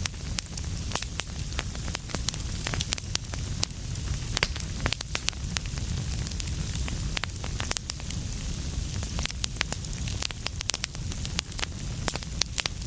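Wood fire burning in a fireplace, with a steady low rumble and many sharp crackles and pops scattered irregularly throughout.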